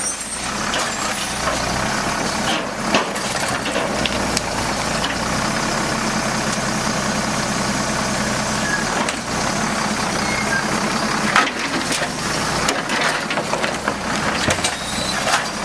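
Automated side-load garbage truck running steadily, with a few sharp knocks.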